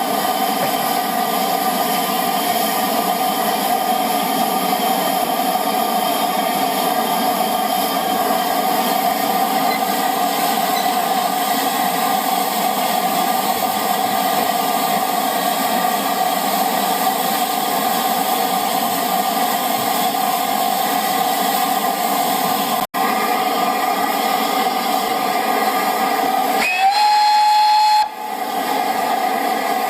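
Steam locomotive hissing steadily, with a short whistle blast of about a second near the end that slides up in pitch as it starts.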